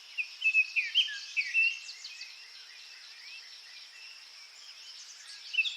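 Small birds chirping and twittering in quick short calls, a cluster in the first two seconds and a few more near the end, over a steady high insect-like hiss of outdoor ambience.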